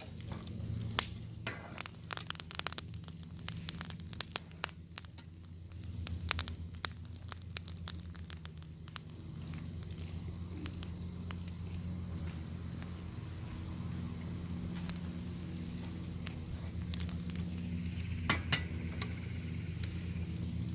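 Bacon sizzling in a pan over a wood fire, a steady hiss broken by many sharp pops and crackles, thick in the first half and sparser later, with a couple of louder pops near the end.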